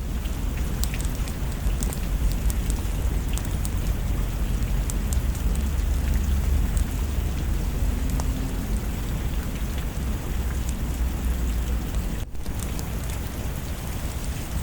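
Steady rain with a deep, continuous low rumble underneath and scattered light ticks of drops. The sound briefly drops out about twelve seconds in.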